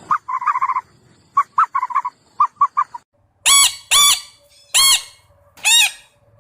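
Birds calling: first a quick series of short chattering notes, then four loud calls about half a second apart, each rising and then falling in pitch.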